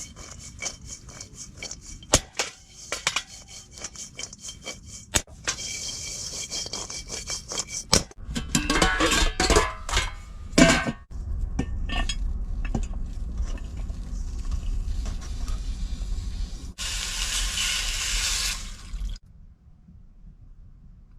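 Cooking and kitchen-handling sounds: utensils, dishes and pans clinking and knocking, with some scraping, and a steady hiss of about two seconds near the end.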